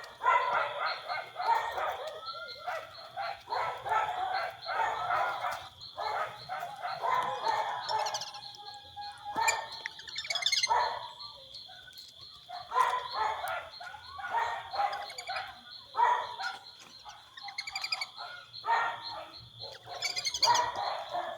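Ducks calling in rapid runs of harsh notes, one run after another with short pauses, over a steady high-pitched whine.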